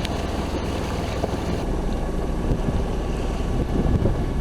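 Wind buffeting the microphone aboard a sailboat under way, over a steady low rumble.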